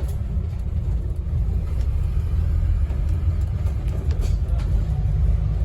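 Scania N270UD OmniCity double-decker bus heard from inside, its five-cylinder diesel engine and running gear making a steady low rumble, with a few faint rattles about three to four and a half seconds in.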